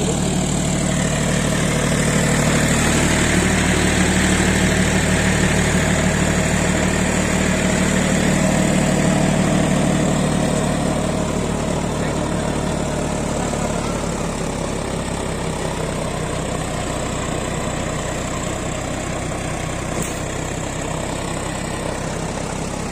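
John Deere 5050D tractor's three-cylinder diesel engine running steadily, louder for about the first ten seconds and then easing to a lower, even level.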